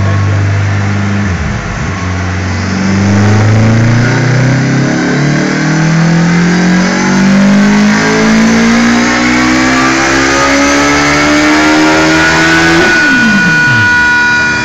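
2008 Suzuki Hayabusa's inline-four engine making a full-throttle dyno run. After a brief dip about a second and a half in, the revs climb steadily for about ten seconds. Near the end the throttle shuts and the revs fall away quickly.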